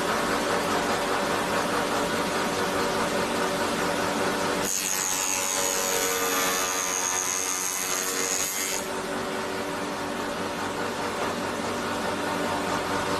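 SH30-2 wood milling machine running steadily with a hum of several steady tones. From about five seconds in to about nine seconds in, the cutter works through wood, adding a high whine and hiss before the sound returns to the plain running hum.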